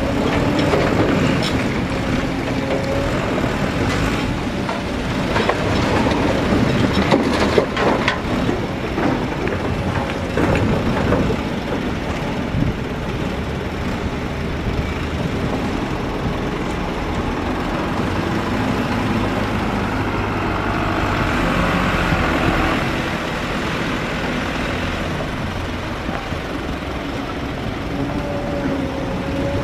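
Heavy diesel machinery working, an excavator and a dump truck: a steady engine drone with scattered metal clanks and knocks, thickest about seven to eight seconds in.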